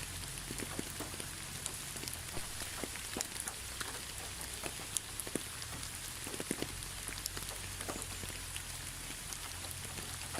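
Steady rain falling, an even hiss with many separate drops pattering and ticking sharply.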